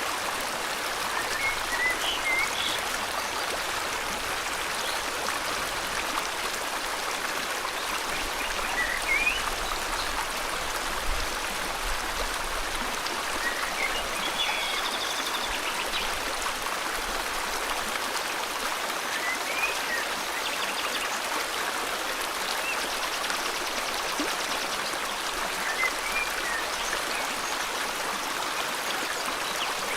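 River water flowing steadily, a continuous rushing hiss. Faint short bird chirps rise over it every few seconds, with a brief trill about halfway through.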